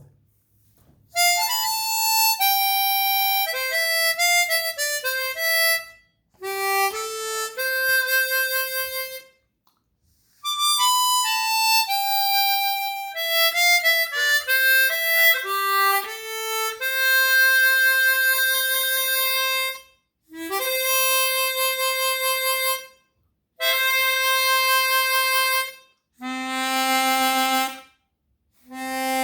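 Chromatic harmonica played solo in short melodic phrases and held notes with brief pauses between them, passing back and forth between a stock Suzuki SCX-16 and a 12-hole Suzuki chromatic fitted with Kettlewell Resonant Covers to compare their tone. The last two phrases drop to lower held notes.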